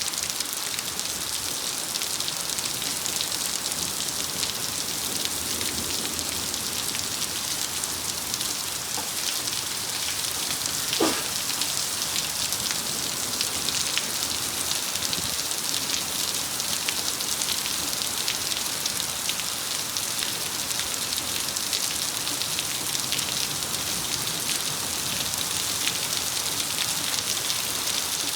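Heavy thunderstorm rain pouring down, a steady hiss full of fine drop ticks. One short sharp knock about eleven seconds in.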